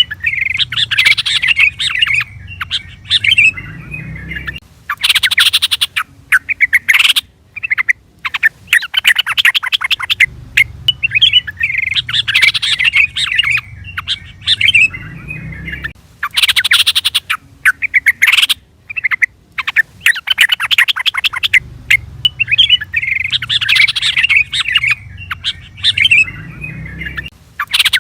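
Yellow-vented bulbul (trucukan) calling in rapid, bubbly chirping phrases broken by sharp chattering notes. It is a recorded sequence that repeats about every 11 seconds.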